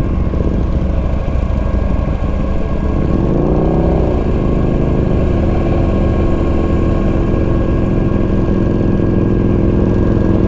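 2009 Buell Lightning XB12SCG's air-cooled V-twin running at a steady, moderate speed. About three and a half seconds in, an engine note briefly rises and falls in pitch.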